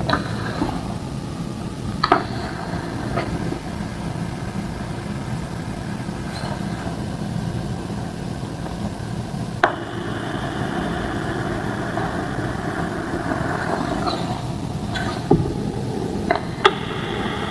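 A few short, sharp cracks of gym-chalk slabs snapping and crumbling, the loudest about two and ten seconds in, over a steady engine-like background hum.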